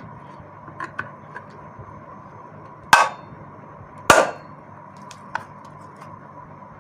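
Metal tool striking the metal housing of a vacuum cleaner motor: a few light taps, then two sharp blows about a second apart near the middle. The blows are bending back the crimped tabs that hold the motor's outer cover on.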